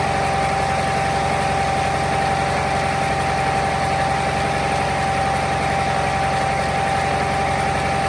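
Volvo VNL truck's diesel engine idling steadily, with a constant high-pitched whine over a fast, even pulsing beat.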